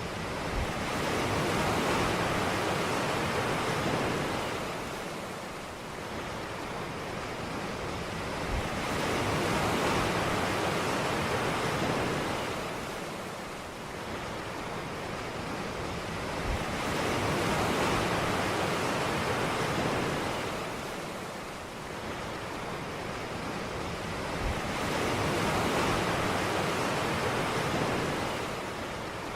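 Sea waves breaking and washing on a beach, the surf swelling and fading about every eight seconds, four times.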